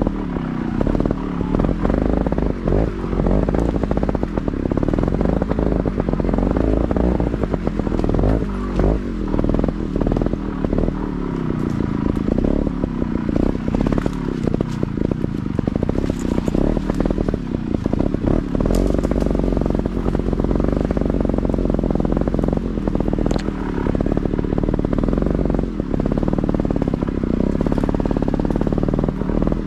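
Motorcycle engine running while being ridden slowly over rough woodland ground, its pitch rising and falling with the throttle, with frequent clattering knocks and rattles.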